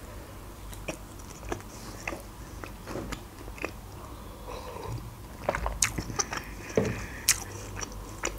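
Close-up chewing and biting of lahmacun, a thin Turkish flatbread topped with minced meat: soft mouth clicks and smacks, busier and louder in the second half.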